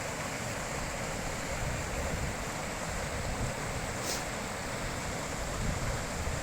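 Mountain river water rushing steadily over rocks, with uneven low wind buffeting on the microphone and a brief high tick about four seconds in.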